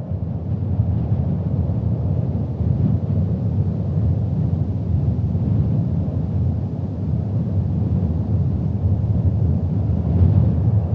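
Wind buffeting the microphone in a snowstorm: a steady, low rumble with no crackle or distinct events.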